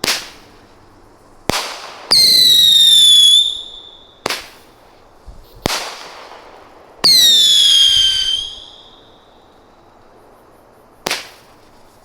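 Fireworks going off: several sharp bangs and two loud whistles, each lasting about a second and a half and dropping slightly in pitch.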